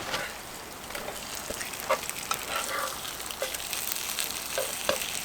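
Eel fillets sizzling on a camp grill: a steady hiss of cooking fat, with scattered small pops and crackles.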